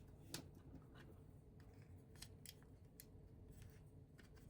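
Near-silent room tone with a few faint, scattered clicks of plastic LEGO pieces being handled and fitted.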